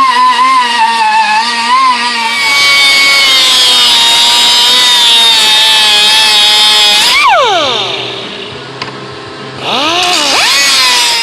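Handheld electric angle grinder working metal, its pitch dipping and wavering under load, then running steadily before being switched off and spinning down about seven seconds in. Near the end it is triggered briefly again, rising and falling back.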